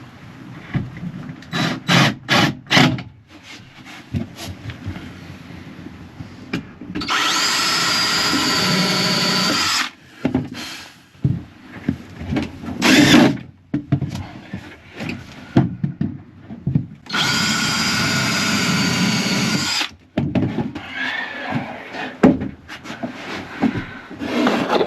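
Power drill driving screws into plywood: two steady runs of about three seconds each, with a few knocks of wood being handled before and between them.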